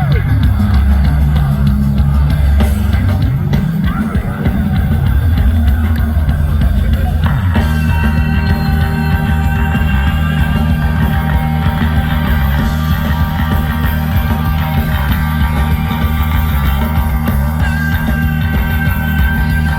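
Live rock band playing an instrumental passage: a heavy, busy bass line with drums, and from about seven seconds in, held high guitar notes over the top.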